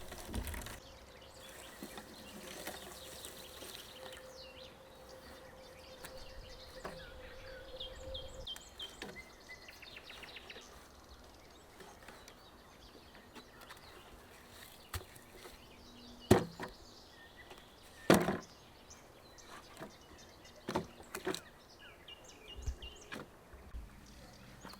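Scattered knocks and clacks of objects being handled, two of them loud, about sixteen and eighteen seconds in, over a quiet forest background with a few short bird chirps.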